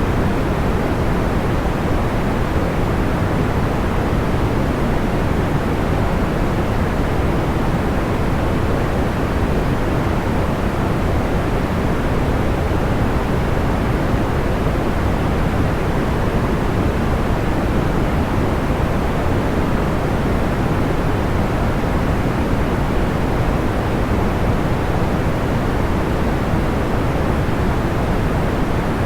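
Steady synthetic white noise weighted toward the low end, a soft even rushing hiss that does not change; no separate crackles or pops stand out.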